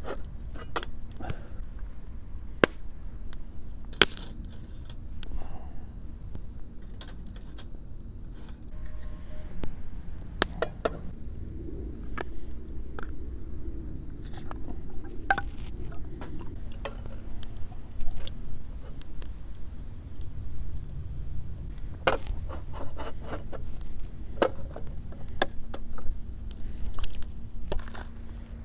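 Crickets chirring steadily, a continuous high-pitched drone, with scattered sharp clicks and knocks, several of them louder than the insects.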